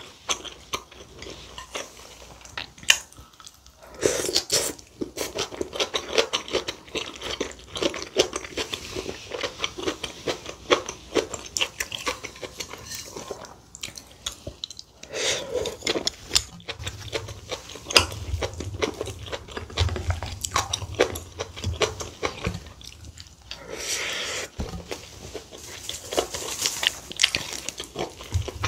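Close-miked eating sounds: wet chewing of kimchi stew and rice, with spoon and chopsticks clinking against the bowl and pot.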